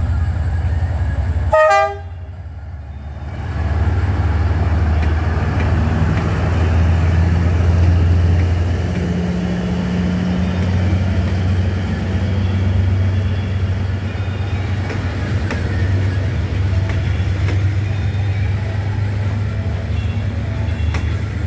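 One short horn blast from a D19E diesel-electric locomotive about two seconds in. Then the locomotive's low engine rumble passes, followed by the steady rumble of the passenger coaches rolling by slowly as the train gathers speed over the crossing.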